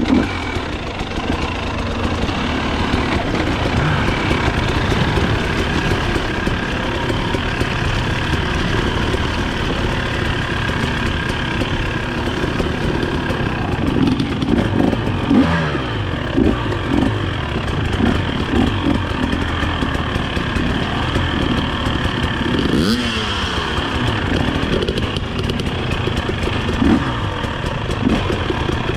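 Dirt bike engine running under load on a trail, its revs rising and falling again and again as the throttle is worked.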